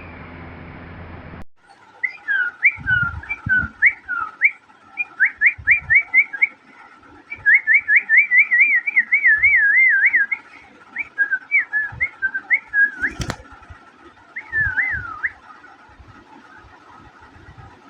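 Parrot whistling a long run of short, quick notes that glide up and down, with a faster warbling stretch in the middle, then pausing and whistling a few more notes. A single sharp click falls late in the run.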